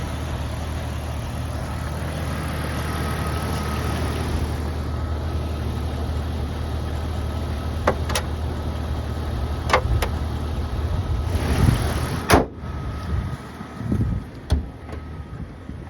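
1996 Jeep Cherokee's 4.0 inline-six idling steadily with a low hum. A few sharp clicks come in the second half, then a louder knock about twelve seconds in, after which the engine sound is quieter.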